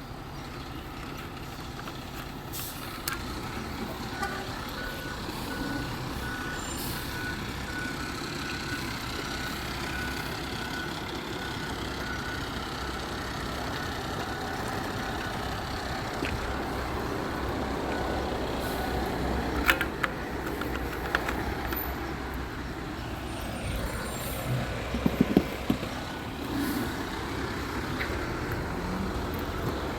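Garbage truck engine running steadily, with its reversing alarm beeping, and a few sharp clanks about two-thirds of the way through.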